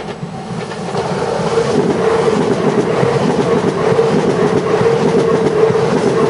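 E6 series Akita Shinkansen train passing close by on single track. A loud, continuous rush of running noise with rapid clicking of the wheels over the rail joints swells about a second in and stays loud.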